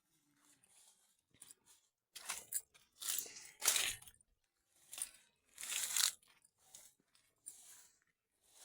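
Crunching and rustling noises in irregular bursts, several in a row about a second apart.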